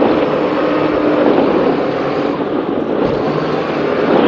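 Offshore racing powerboat's engines running hard at speed, a loud steady drone mixed with the rush of wind and water over the hull.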